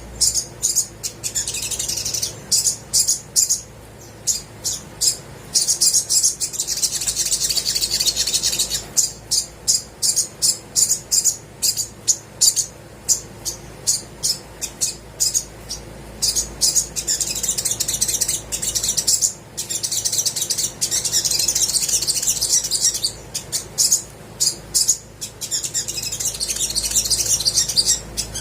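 Olive-backed sunbird singing: runs of sharp, high chips, several a second, alternating with stretches of continuous high twittering.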